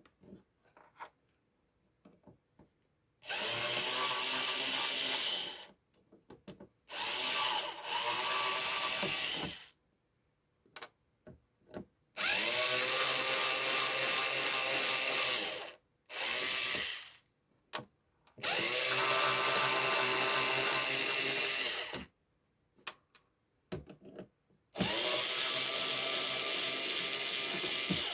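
Small handheld power tool's electric motor running in repeated bursts of one to four seconds, six times, with short pauses and small clicks between. It is used while removing capacitors from a TV power-supply board.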